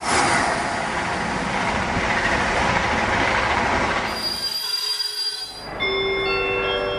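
Sound effect of a train passing at speed: a loud rushing noise of wheels and rail that fades away about four and a half seconds in. Near the end, a bright chime of several held notes comes in one after another.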